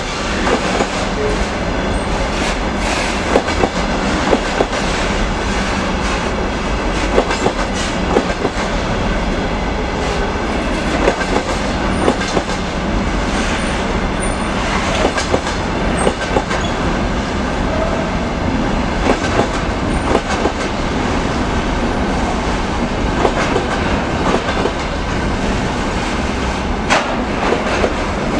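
Container freight train rolling past, its wagon wheels clattering steadily over the rail joints in an irregular run of knocks.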